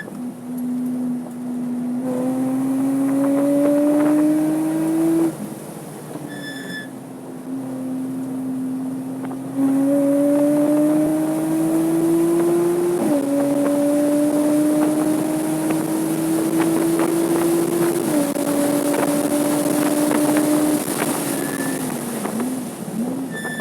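Porsche 987.2 Cayman S's 3.4-litre flat-six pulling hard at speed, its note climbing steadily and dropping sharply at each upshift, with a lift about a fifth of the way in and wavering throttle blips near the end. Short electronic beeps sound twice, about a quarter of the way in and at the end.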